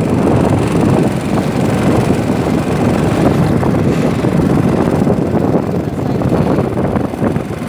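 Steady loud rumble of a motorboat under way, mixed with wind buffeting the microphone.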